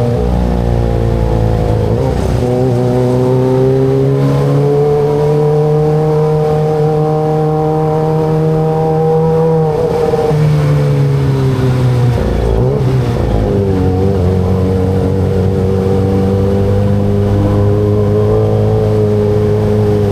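Kawasaki ZX25RR's 249 cc inline-four engine running at a steady cruise. Its note rises slowly, drops sharply about ten seconds in, and shifts again near thirteen seconds as the rider changes throttle and gears.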